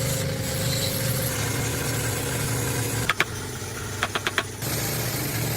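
An engine running steadily, with a few sharp clicks about three seconds in and a quick run of clicks about four seconds in.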